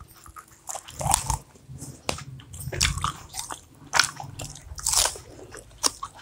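Biting and chewing crisp deep-fried chicken pakoda close to a clip-on microphone: a run of irregular, loud crunches as the pieces are bitten and chewed.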